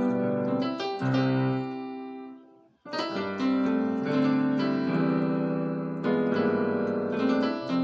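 Keyboard playing gospel-style chord movements on a piano sound. A held chord dies away and breaks off nearly three seconds in, then a run of sustained chords follows, changing about every second.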